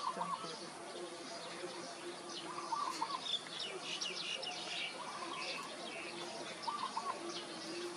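Birds chirping: many short high chirps, with a short phrase of three or four lower notes repeated about every two seconds.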